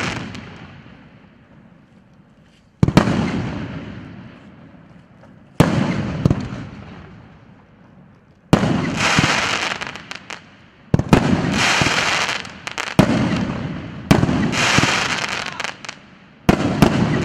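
A large fireworks battery (cake) firing: seven sharp bursts, about every two to three seconds and coming faster near the end, each followed by a dense crackling tail that fades over a few seconds.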